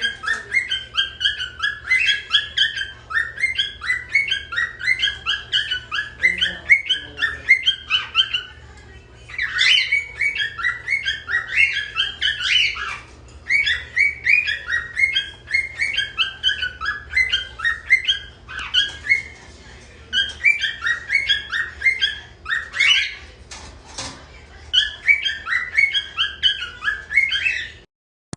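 Cockatiel chattering: fast, repeated chirps in long bouts broken by short pauses, cutting off abruptly near the end.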